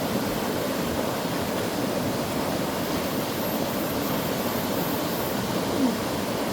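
Mountain stream water rushing steadily over rocks, a constant full rush. A brief squeak near the end.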